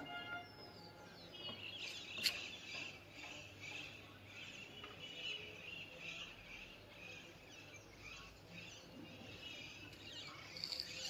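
Several small birds chirping, faint and continuous, with many short calls overlapping. A single sharp click comes about two seconds in.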